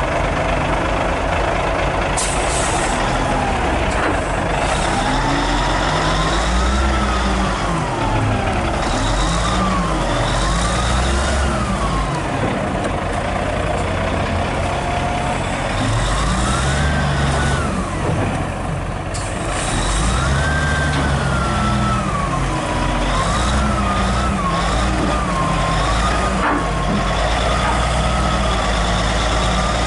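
Hino 500 FM320TI truck's diesel engine heard from inside the cab while driving under load, its pitch rising and falling repeatedly as the revs climb and drop. There are two bursts of air hiss, one about two seconds in and one about two-thirds of the way through.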